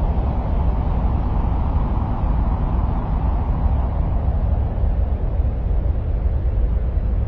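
Steady, deep rumbling noise with no distinct events, heaviest in the bass and thinning out toward the higher pitches: an ambient noise track presented as the sound of Mars.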